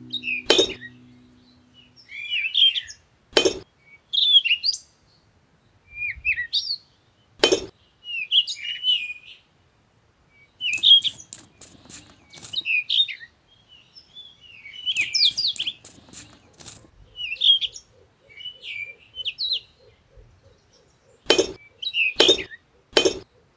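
Small birds chirping in short, repeated calls, with a few sharp clicks scattered through, including three in quick succession near the end.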